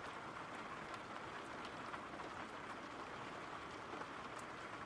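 Soft, steady rain: an even hiss of falling rain with faint scattered drop ticks.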